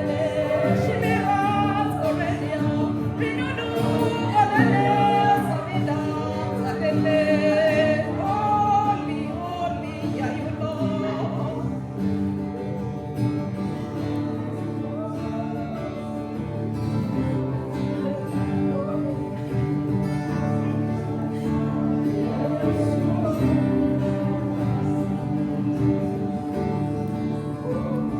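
Live praise-and-worship music: voices singing a melody over sustained instrumental chords. The singing is strongest for the first ten seconds or so, then gives way to softer, mostly instrumental playing with quieter vocal lines.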